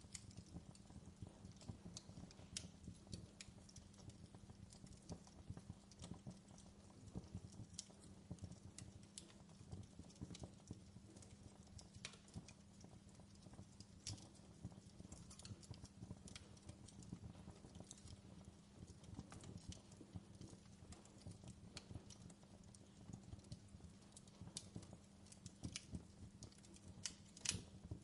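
Faint crackling wood fire: irregular snaps and pops, a few louder ones near the end, over a low steady hum.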